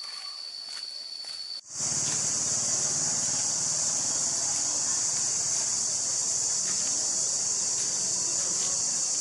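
Insects calling in a steady high-pitched drone, a single tone at first. After a sudden break about a second and a half in, a louder, steady, high hiss-like insect chorus takes over.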